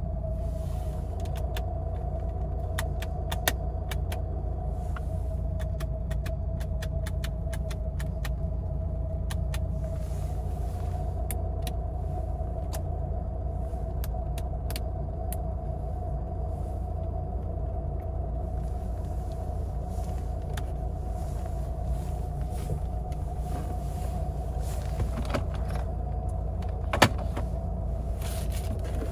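Lada Niva 1.7i four-cylinder petrol engine idling, heard from inside the cabin as a steady low drone with a steady whine above it. Dashboard switches click many times through the first half, and a single sharp knock comes near the end as the glove box lid drops open.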